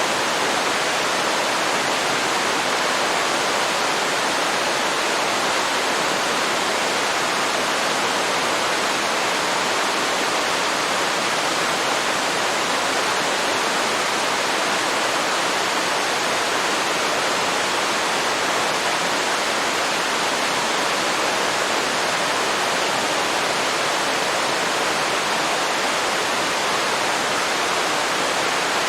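Waterfall pouring into a river: a steady, unbroken rush of water with no separate splashes standing out.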